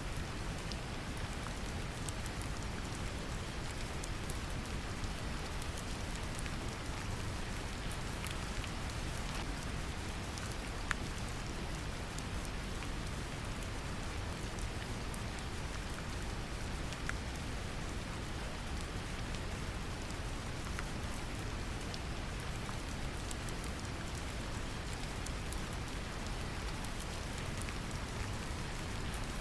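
Brown noise, a steady deep rumbling hiss, mixed with gentle rain: an even patter with scattered individual drop ticks.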